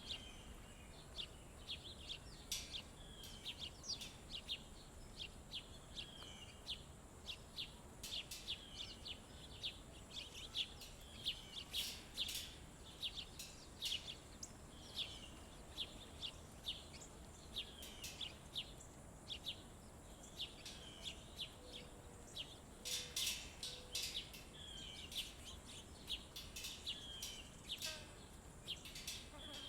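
Small songbirds chirping and calling: many short, quick chirps and little sliding calls, overlapping throughout, with a faint steady high-pitched hum underneath.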